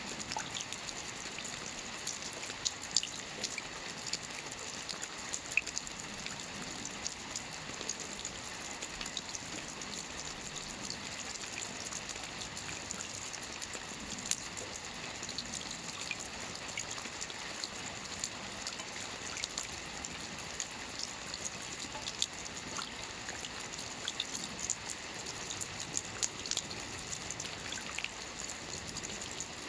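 Steady rain falling on a roof: an even hiss with many separate drops ticking throughout.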